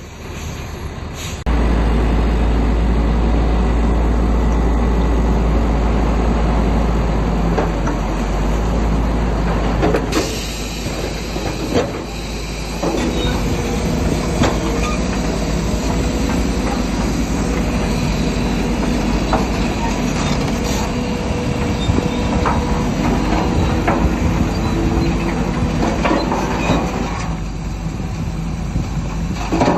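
Bulldozer at work: its diesel engine runs under a deep rumble while its steel crawler tracks clank and squeal. The heavy rumble is strongest over the first third.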